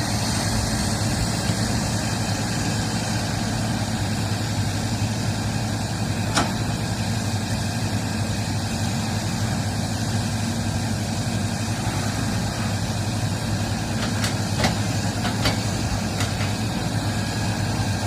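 Heavy machinery's diesel engine running steadily at a low, even rumble, with a few short sharp clicks or knocks: one about six seconds in and several close together later on.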